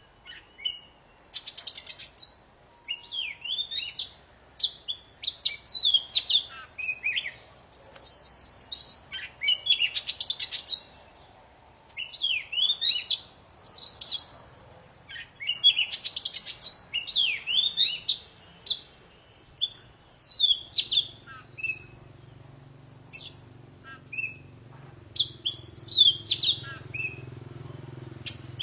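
Oriental magpie-robin (the white-bellied 'kacer poci' type) in full song: a loud, varied run of rapid whistles, sweeping notes and chirps in short phrases separated by brief pauses.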